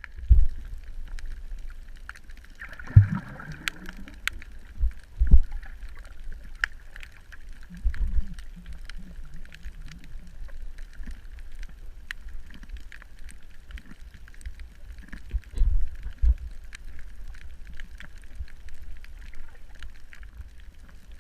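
Audio recorded underwater: a constant deep rumble with several dull low knocks, scattered faint clicks, and a short burst of bubbling about three seconds in.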